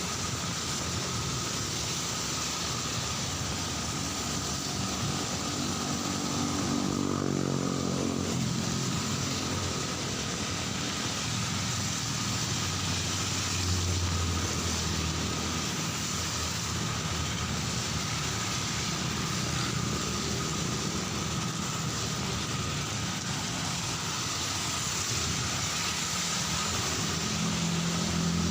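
Steady heavy rainfall hiss with street traffic of cars and motorbikes passing, one engine rising in pitch about a quarter of the way in.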